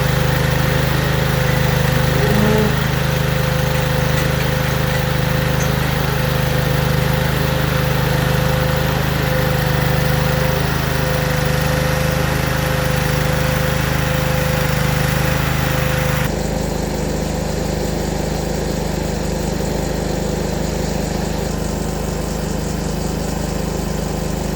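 Tractor diesel engine running steadily at a constant speed. About two-thirds of the way through, the higher hiss drops away abruptly, leaving the low engine tone.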